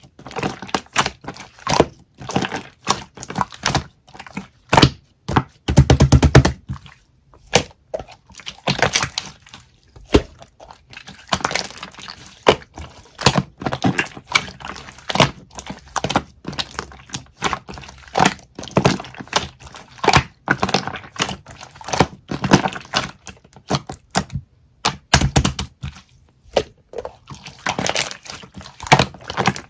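Slime being squeezed, pressed and stretched by hand, making irregular wet clicks and pops. There is a fast run of crackling clicks about six seconds in.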